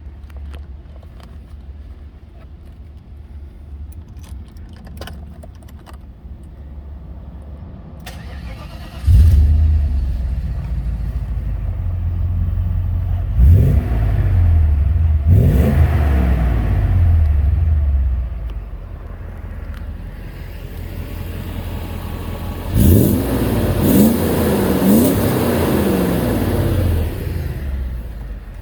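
Mercedes 500E's V8 engine idling with a few light clicks. About a third of the way in it suddenly gets louder, and the throttle is blipped: two revs in the middle, then three quick revs in a row near the end, each falling back to idle.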